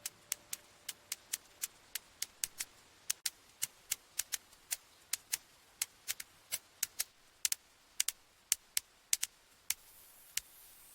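A run of light, sharp clicks at an irregular pace, about two or three a second, over a faint hiss.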